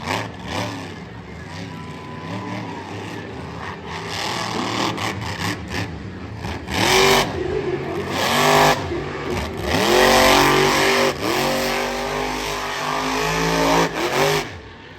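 Monster truck engine revving hard in repeated bursts, its pitch sweeping up and down, with a long loud run of revving in the second half that cuts off near the end.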